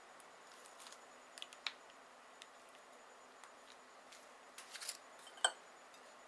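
A few faint, scattered clicks and light taps of kitchen utensils at work, the last and loudest near the end with a brief ring.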